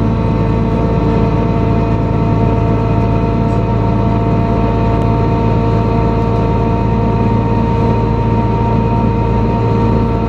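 Engine of a NefAZ-5299 city bus running at steady revs, a steady drone that holds one even pitch, heard from inside the passenger cabin during the ride.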